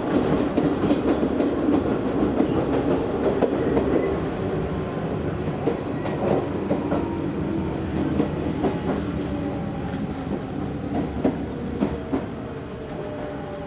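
Running sound inside an Izu Hakone Railway Series 3000 resistance-control electric train: wheels clicking over rail joints against a steady rumble. It slowly gets quieter, and the motor and gear whine falls in pitch, as the train slows for a station.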